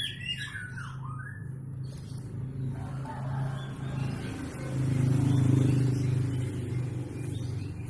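Steady low engine hum that swells louder about five seconds in, with a few short whistled notes of a white-rumped shama at the start.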